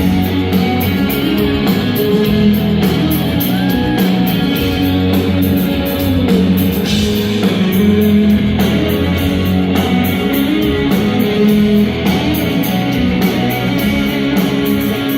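Live rock band playing an instrumental passage: guitars over a drum kit, with no singing.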